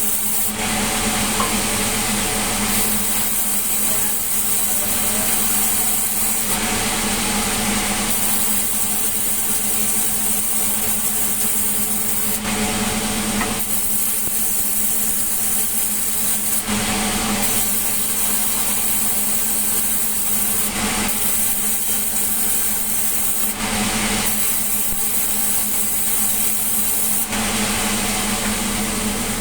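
Sawmill saw running steadily through a melinjo log, with a constant low hum under a loud rasping cut. A brighter, hissier stretch of the cut comes and goes every few seconds.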